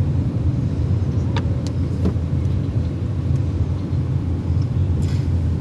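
Steady low rumble of a car driving, heard from inside the cabin, with a couple of faint clicks.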